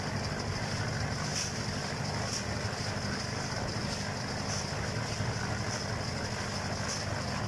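A steady engine running, with a high whine that swells about once a second.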